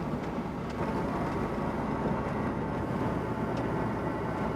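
Cessna 172N's four-cylinder Lycoming engine and propeller running steadily at low power on the ground, heard from inside the cabin as a steady drone, with a few faint ticks.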